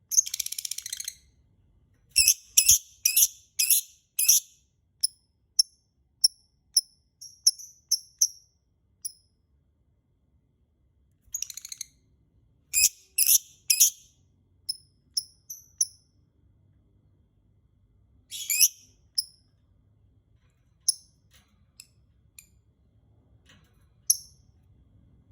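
Lovebird calling: runs of short, shrill, high chirps, with a few longer harsh calls and pauses of a second or two between runs. This is a 'pancingan' recording, lovebird song played to set other lovebirds calling.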